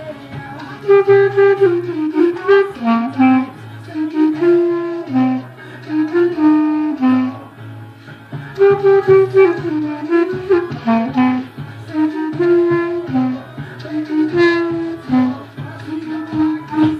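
Clarinet playing a lively, stepping melody over a backing track with a steady bass line.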